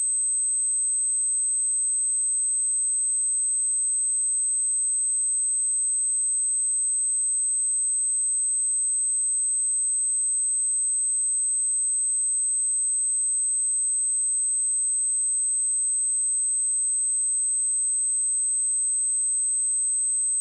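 A steady, high-pitched pure sine-wave test tone at 8218 Hz, held unchanged throughout: a speaker and headphone test signal.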